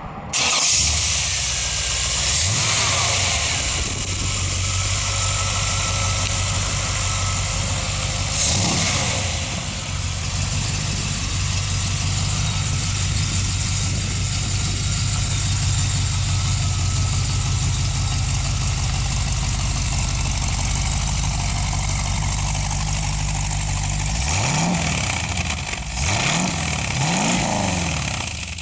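A 1970 Corvette's 350 small-block Chevy V8 is started about half a second in and revs briefly. It then idles steadily, with a short rev partway through, and is blipped several times in quick succession near the end.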